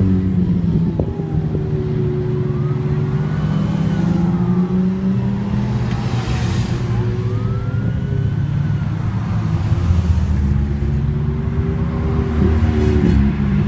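Car engines running in street traffic, their pitch rising and falling a little with the throttle. Twice a faint whine rises and falls above them.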